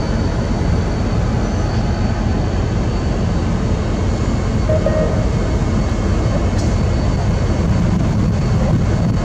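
A double-deck commuter train rolling past close by: a steady, even rumble of coaches on the rails.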